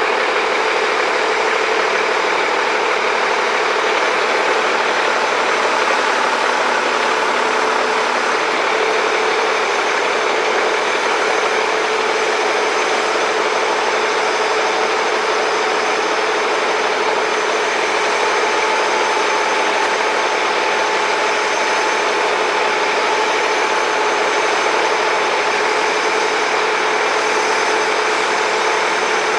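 Engine of heavy construction equipment running steadily at a constant speed, a droning hum with a steady hiss over it.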